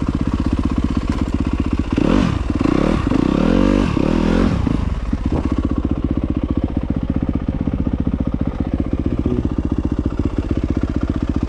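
Motorcycle engine revving up and down through the first five seconds or so, then settling to a steady idle.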